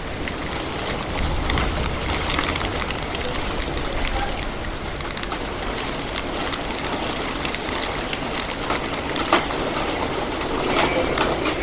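Heavy rain falling: a steady hiss dotted with many sharp drop impacts, one louder tap about nine seconds in.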